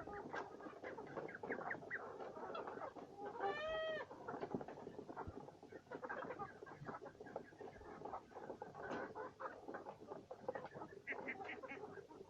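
Chickens clucking, with dense short pecking and scratching sounds, typical of birds eating feed; one longer call stands out about three and a half seconds in.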